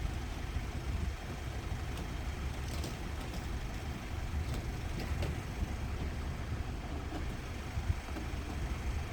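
Steady low rumble of vehicle engines idling, with a few faint ticks about three to five seconds in.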